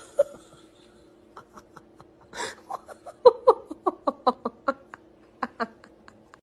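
A person laughing in a run of short, quiet bursts, with a faint steady hum underneath.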